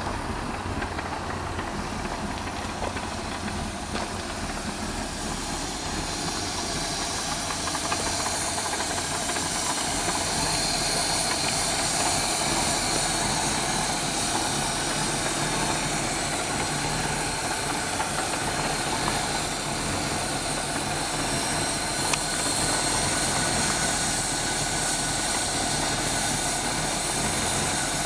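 Rover P6 3500S's 3.5-litre V8 engine idling steadily under an open bonnet, with a strong steady hiss over the running. It gets louder from about eight seconds in.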